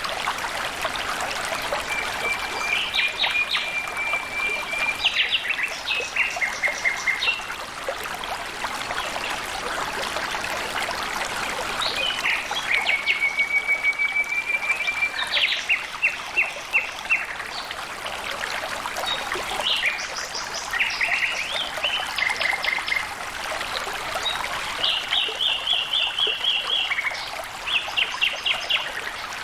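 Water trickling and flowing steadily, with a bird singing over it. The song comes in repeated phrases, each a level trill followed by a quick run of short notes, four times.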